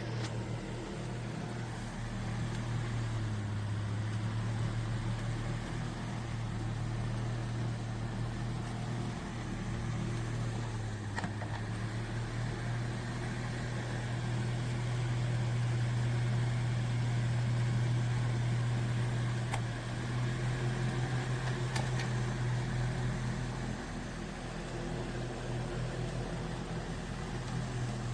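Holmes Blizzard 7-inch table fan running, a steady low motor hum with a rush of air that slowly rises and falls in level.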